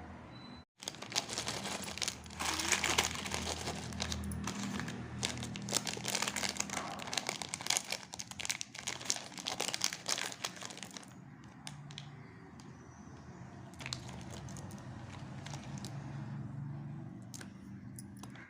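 Chocolate wrappers being handled and torn open, with dense crinkling and crackling for about ten seconds. The crinkling then thins to occasional crackles and clicks.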